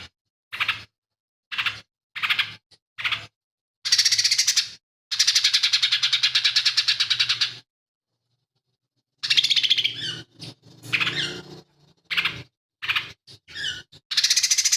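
A cucak ijo mini (lesser green leafbird) sings a song full of mimicked calls of other birds. Short sharp chirps give way to two long, fast, rattling chatters, then a run of varied whistled phrases and another fast chatter near the end.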